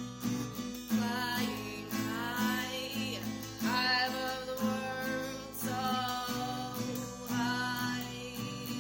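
Acoustic guitar strummed in a steady rhythm, with a voice singing a melody over it in several phrases.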